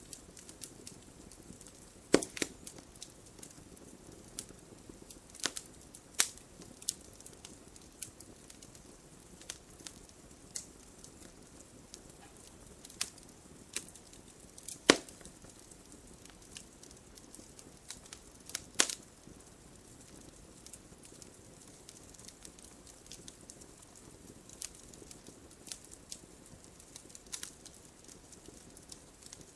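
Wood fire of burning logs in a fireplace crackling over a soft steady hiss, with irregular sharp pops scattered through it; the loudest pop comes about halfway through.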